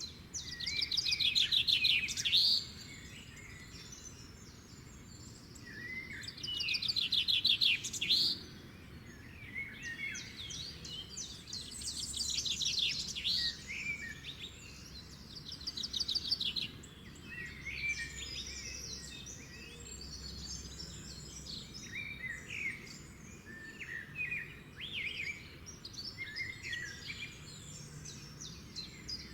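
Several songbirds singing and chirping, with a loud, rapid trilled song phrase twice, about a second in and again about six seconds in, and softer chirps and short phrases throughout over faint background noise.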